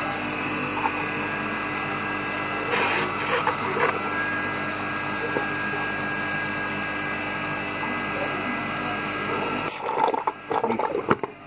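Half-horsepower peripheral electric water pump running steadily after its bearings were replaced, primed and pumping water, with a quiet, even hum. It shuts off about ten seconds in, followed by a few clicks and knocks.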